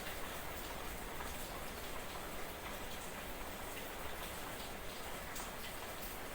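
Light drizzle falling at night: a steady, even patter of fine raindrops with scattered small drip ticks.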